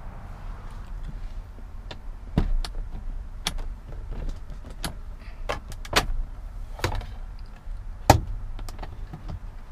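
A series of sharp clicks and knocks, about a dozen, the loudest about two and a half and eight seconds in, over a low steady rumble: handling noises on a car's body and interior.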